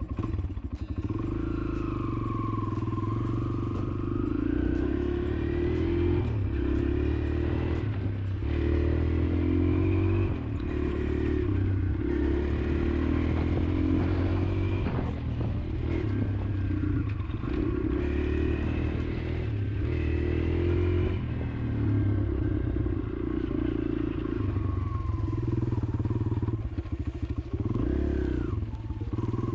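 Kawasaki KLX140L dirt bike's single-cylinder four-stroke engine running steadily after a cold start, with small swells in its level.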